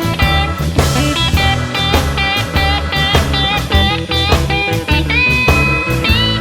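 Blues band music: a lead guitar solo with bent notes over bass and drums, ending on a long held, bent note.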